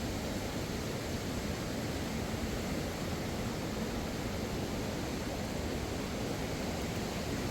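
Steady rushing of a fast mountain river: an even, unbroken water noise.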